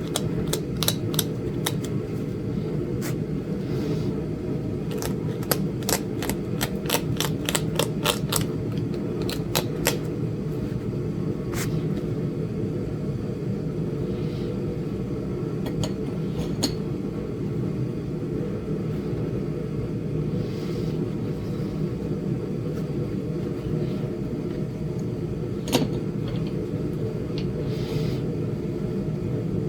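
Sharp clicks of a Flint Ridge chert point being knapped: a quick run of clicks in the first eight seconds, then scattered single ones, a louder one near the end. Under them runs the steady low hum of a space heater.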